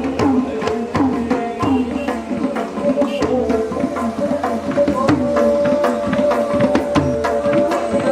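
Live instrumental music: quick, dense percussion strokes under a melodic line, which settles into one long held note about halfway through.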